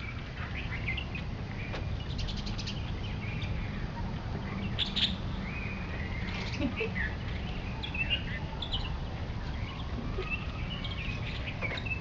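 Many birds chirping and calling, short scattered calls coming thick and fast, over a steady low rumble.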